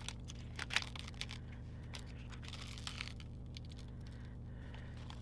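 Paper sticker and its backing sheet being peeled and handled: scattered small crinkles and clicks, the loudest a sharp tick under a second in, over a steady low hum.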